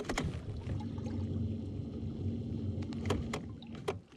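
Low, steady mechanical hum from the kayak's drive, running for about three seconds and cutting off sharply near the end, with a few sharp clicks over it.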